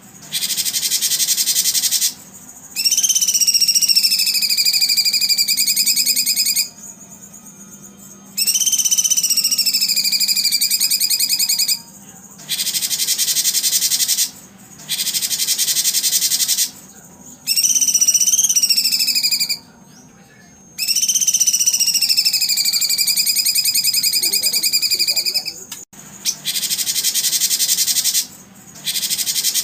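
Loud, high-pitched insect-like buzzing that comes in bursts of a few seconds with short breaks, over which four long whistled bird calls each drop in pitch and then hold steady.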